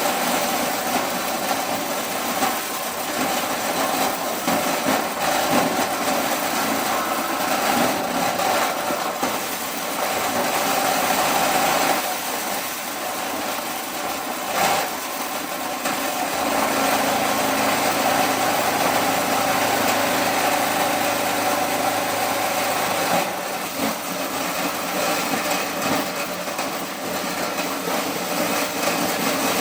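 Motor-driven corn-shelling machine running steadily, stripping kernels from the cobs, with a low hum added for a few seconds past the middle.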